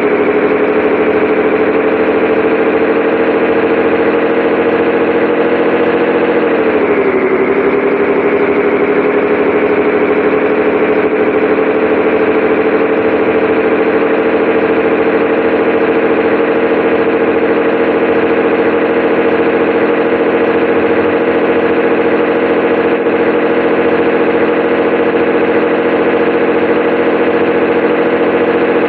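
Scania 113H 360 truck's 11-litre straight-six diesel engine running steadily. About seven seconds in its pitch dips briefly, then slowly climbs back.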